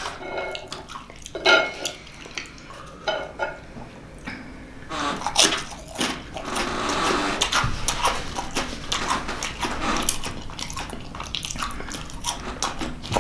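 A man chewing food up close, with wet mouth clicks and smacking. The clicks are scattered at first and grow denser from about five seconds in.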